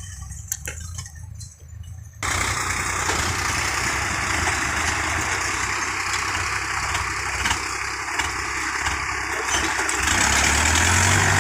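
Tractor engine running steadily under a loud, even noise, cutting in abruptly about two seconds in after a quieter stretch with a few sharp knocks; the low engine hum grows stronger near the end.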